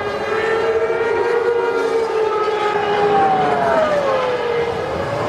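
Formula One V10 engines running past, several sustained engine notes at once, one of them dropping steadily in pitch about three to four and a half seconds in.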